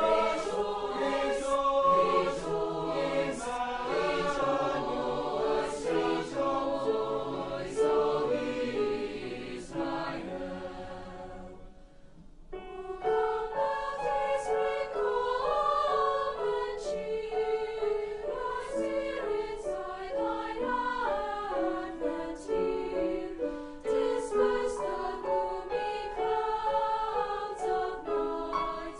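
A school choir singing a holiday piece in parts. The singing fades away about eleven seconds in and starts again a second or so later.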